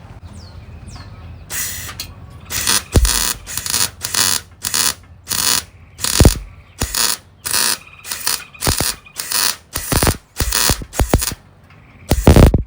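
MIG welder stitch-welding to fill a hole in sheet steel: a run of short crackling buzzes, each a fraction of a second long, starting about a second and a half in and repeating two to three times a second.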